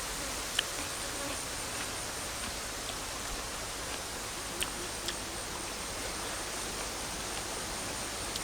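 Steady high-pitched drone of insects over a constant hiss, with three brief sharp clicks, one about half a second in and two close together about four and a half to five seconds in.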